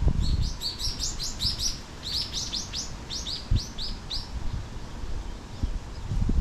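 A songbird singing two quick runs of short, high, repeated notes, about six a second. The second run is longer, and the song stops a little past halfway. An uneven low rumble runs underneath, with a brief thump about halfway through.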